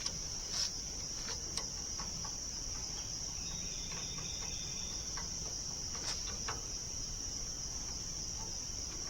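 Steady high-pitched drone of an insect chorus, with a few light clicks and knocks scattered through it.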